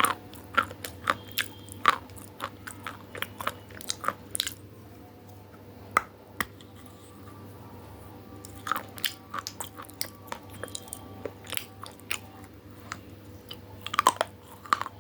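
Close-miked biting and chewing of crunchy food: a string of sharp crunches in clusters, loudest near the start and near the end, with sparser, quieter chewing between.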